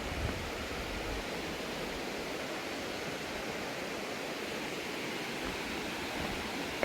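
Steady rushing of a mountain stream, an even hiss of flowing water without let-up.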